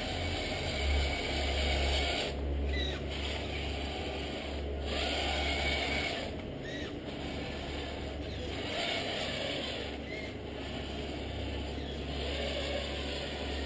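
Radio-controlled 1/14 scale Scania timber truck running: the steady hum and whir of its motor and gearbox over a low rumble, swelling and easing a few times.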